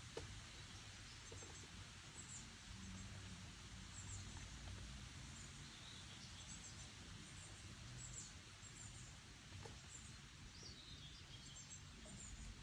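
Faint, high bird chirps scattered throughout over a low rumble of wind. About six and ten seconds in, a bird gives a short run of falling notes.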